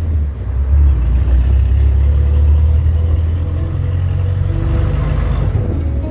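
Steady low engine and road rumble of a moving jeepney, heard from inside while riding.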